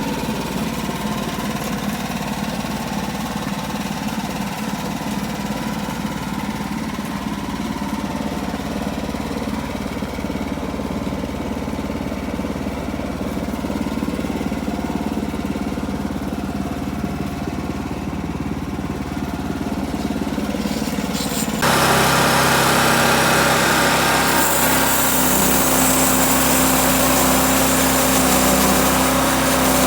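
Old sawmill's engine running steadily. About two-thirds of the way through it cuts abruptly to a louder, fuller sound that carries on to the end.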